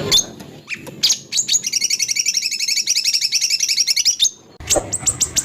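White-rumped shama song: a few short calls, then a fast, even trill of paired high notes for about three seconds, then after a brief break a run of sharp downward-sweeping whistles, several a second.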